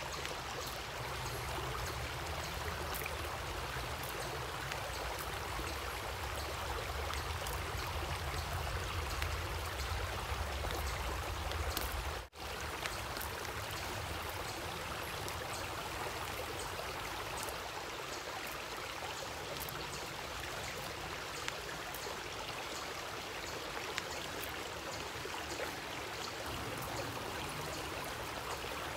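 Natural stream of water running steadily, with a low rumble in the first half. It drops out for an instant about twelve seconds in.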